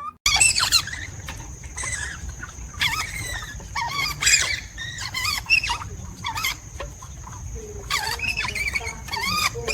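A parrot chirping and squealing in many short calls that slide up and down in pitch, over a thin steady high tone.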